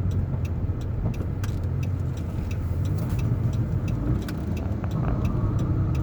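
Car interior noise while driving: a steady low engine and road rumble, with a light, regular ticking about three times a second.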